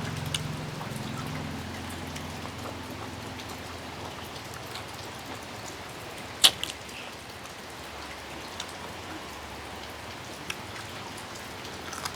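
Steady rain falling, with scattered drops ticking on a surface. One sharp, louder click about halfway through.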